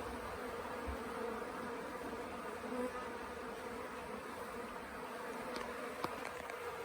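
Swarm of honeybees buzzing in a steady, even hum. A couple of faint ticks come near the end.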